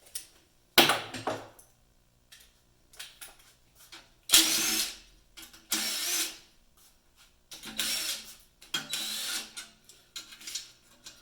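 Hand ratchet clicking in about six short bursts, turning bolts while the oil pan is fitted to the engine.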